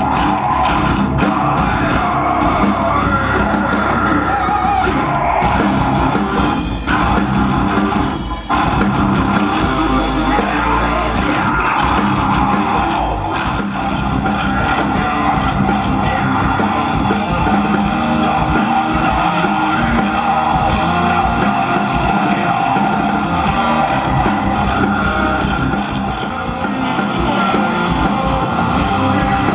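A rock band playing live through a stage PA, with distorted electric guitars, drums and yelled vocals.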